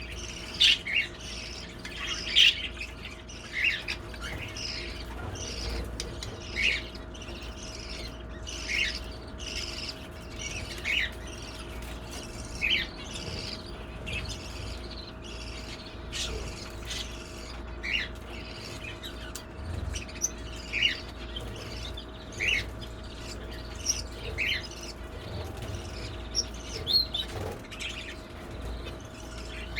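Small aviary birds, a mix of canaries and finches, chirping: short sharp calls every second or two, over a steady faint hum.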